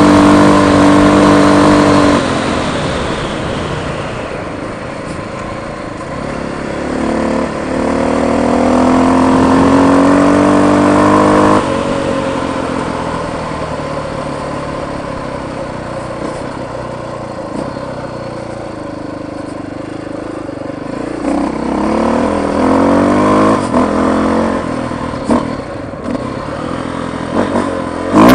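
Motorcycle engine running under way. It pulls hard, eases off about two seconds in, climbs in pitch again and drops off sharply near the middle, then picks up once more toward the end, with a few knocks and rattles.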